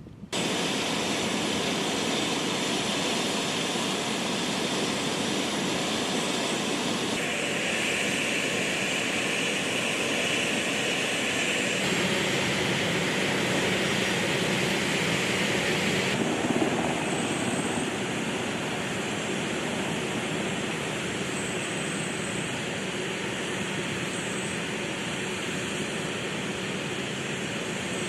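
Jet aircraft engines running loud and steady, most likely an A-10 Thunderbolt II's twin turbofans on the flight line. The tone shifts abruptly about seven, twelve and sixteen seconds in.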